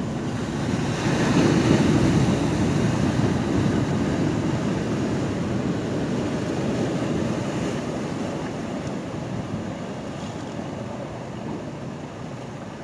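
Ocean waves surging at a pier: one wave swells up about a second in, then slowly washes back and fades.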